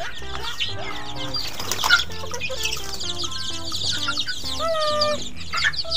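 Young chickens peeping continually in rapid high chirps, over background music.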